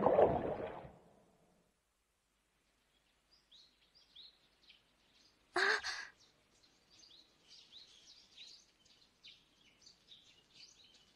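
Small birds chirping in short, high, repeated calls, with a brief loud burst of sound about halfway through. A noisier sound fades out in the first second.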